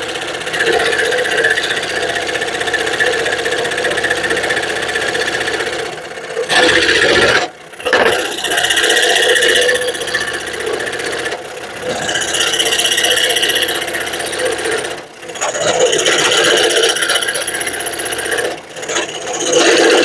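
Scroll saw running and cutting through a wooden board, its blade rasping steadily, with a few brief dips where the cut eases off.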